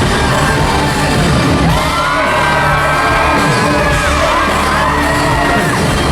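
Live pop concert heard from within the audience: loud amplified music with a heavy, steady bass, singing, and long high screams and whoops from the crowd.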